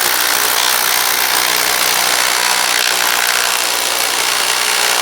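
Hammer drill boring into concrete, running steadily without a pause.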